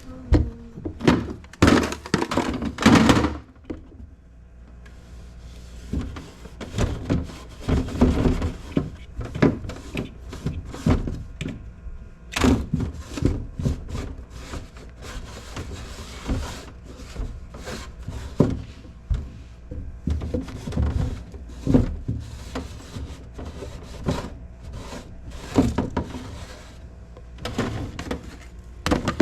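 Repeated thunks, knocks and clatter from refrigerator shelves, drawers and containers being handled and put back, with stretches of rubbing noise from wiping in between.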